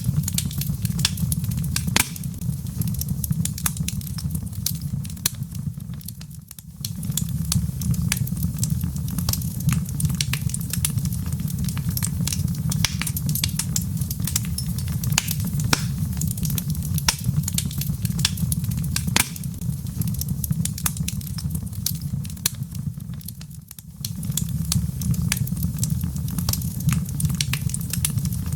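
Wood fire burning in a fireplace: a steady low rumble with frequent sharp crackles and pops of burning logs. The whole sound dips briefly twice, about six and twenty-three seconds in.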